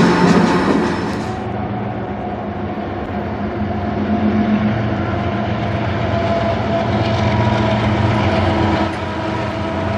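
Freight cars rolling past on steel rails, then a diesel freight locomotive approaching from a distance, its engine a steady drone with a low rumble that grows slowly louder.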